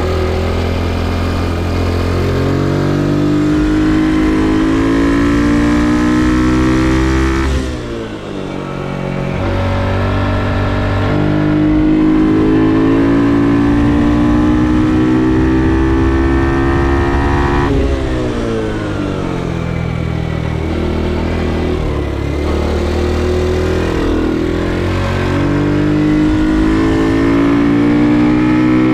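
Ohvale GP2 110's small single-cylinder four-stroke engine heard onboard, revving up through the gears on the straights. The pitch falls sharply about 8 seconds and 18 seconds in as the rider backs off and downshifts for corners, then climbs again.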